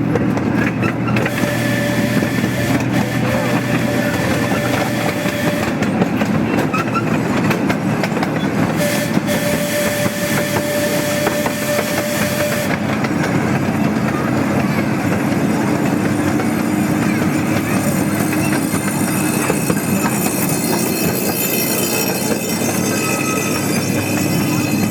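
A miniature park train running along its track, with a steady rumble and clatter of its wheels. Twice it is joined by a steady high tone that lasts about four seconds each time: once about a second in and again about nine seconds in.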